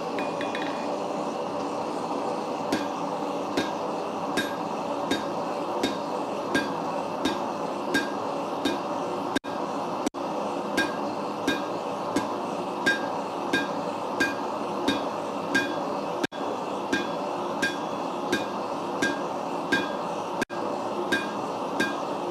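Hammer blows on steel over an anvil at an even pace, a little more than one strike a second, each with a short metallic ring, over the steady roar of a gas forge's burner running.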